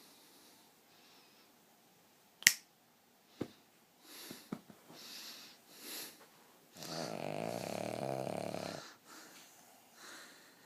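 King Charles Spaniel snoring in its sleep: a few soft breaths, then one long snore lasting about two seconds in the second half. A sharp click about two and a half seconds in is the loudest sound, followed by two fainter clicks.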